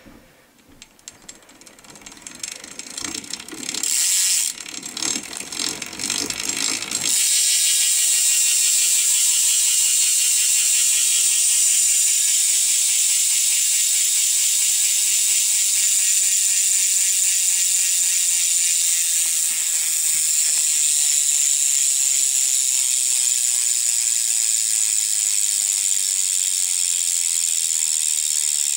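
Brand-new, not-degreased Profile SS Mini BMX rear hub freewheeling, its pawls clicking. It starts as scattered clicks, then about seven seconds in the wheel is spun and the clicks merge into a very loud rapid buzz that slows gradually as the wheel coasts down.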